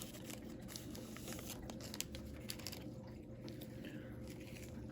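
Faint rustling and light ticks of a foil trading-card pack wrapper and cards being handled, over a steady low hum.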